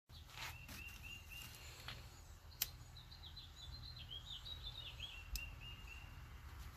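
Small birds chirping in runs of short repeated notes over a low steady outdoor rumble, with two sharp clicks, the louder one about two and a half seconds in and another about five seconds in.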